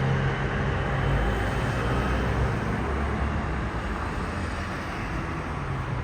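Steady low rumble of road vehicles, with a low hum that fades about a second in.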